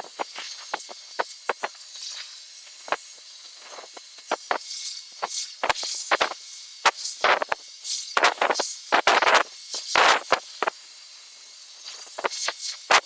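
Havells HD3151 1200 W hair dryer blowing while drying hair: a steady high hiss, broken by many irregular gusts of air buffeting the microphone.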